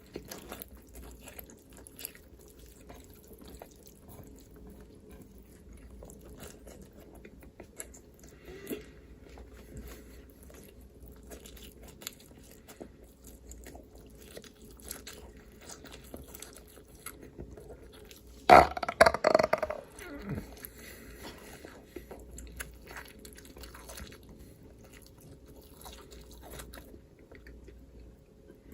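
Close-miked chewing and biting, many small wet clicks and smacks of eating, with one much louder burst of sound about two-thirds of the way through.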